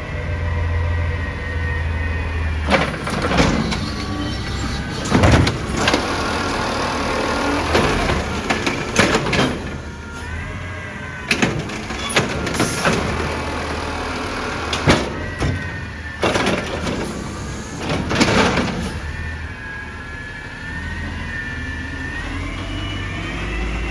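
An Amrep garbage truck is running, with a steady engine and a wavering hydraulic whine. A series of loud bangs and clatters comes from the middle stretch as cans are tipped and knocked against the body. Near the end the engine revs up with a rising pitch.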